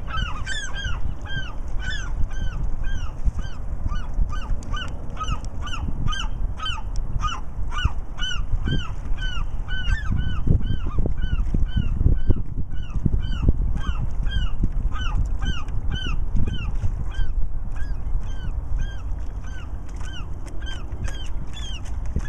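A bird calling over and over, short arched calls at about two to three a second, keeping up a steady rhythm. Underneath runs a low rumble that swells around the middle.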